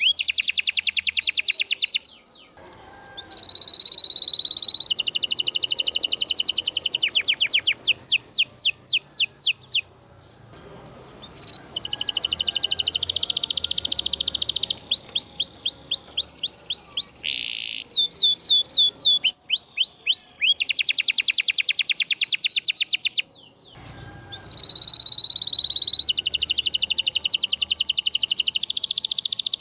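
Domestic canary singing long, high-pitched rolling trills: fast runs of repeated notes changing from phrase to phrase, with three short pauses.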